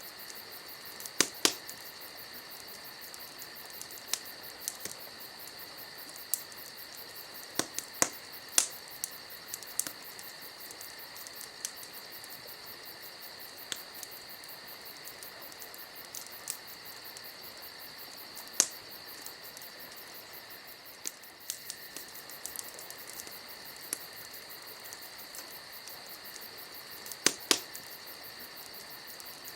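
Wood campfire crackling, with sharp pops scattered irregularly and a few loud ones in quick pairs, over a steady high chirring of crickets.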